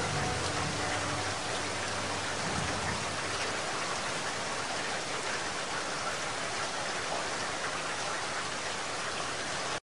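Steady rain falling, an even hiss, with the last low notes of the music dying away in the first few seconds. The rain cuts off suddenly at the very end.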